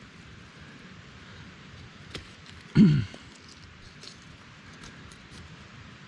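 A man's brief wordless vocal sound about three seconds in, falling in pitch, over a faint steady hiss with a few small scattered clicks.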